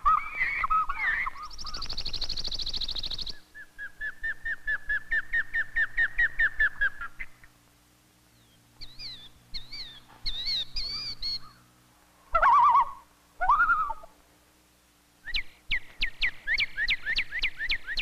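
Several different birds singing and calling one after another: a short run of repeated notes, a high buzzy note, a long trill of quick even notes, high warbling phrases, two lower calls, then a rapid series of sharp descending notes near the end.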